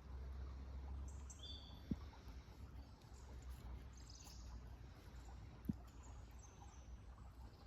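Birds chirping faintly in the background over a low outdoor rumble, with two short soft knocks about two seconds and six seconds in.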